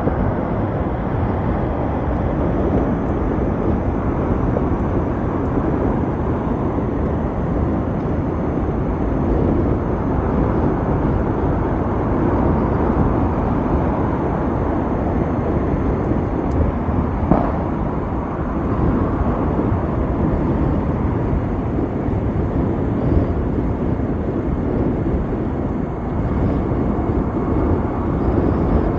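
Steady wind rush and road noise on the camera microphone of a moving Ather 450X electric scooter, with no engine note. There is one short knock about 17 seconds in.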